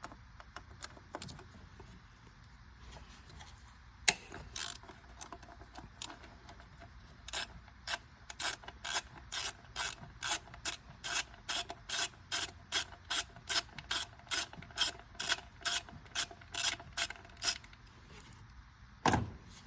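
Ratchet wrench clicking as it backs out the 8mm bolt holding a coil pack on a Ford F-150 3.5L EcoBoost engine: a single sharp click about four seconds in, then a steady run of clicks about twice a second for some ten seconds. A single knock near the end.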